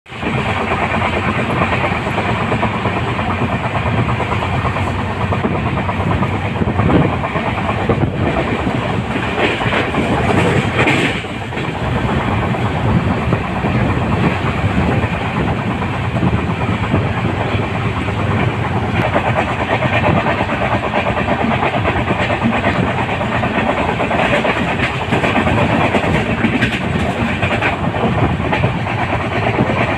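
Passenger train in motion, heard from alongside an Indian Railways sleeper coach: wheels clattering over the rails in an irregular clickety-clack over a continuous rumble.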